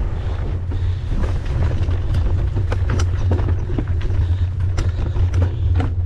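Mountain bike ridden over rough trail: a steady low rumble from wind on the microphone and the tyres, with frequent sharp clicks and rattles from the bike jolting over the ground.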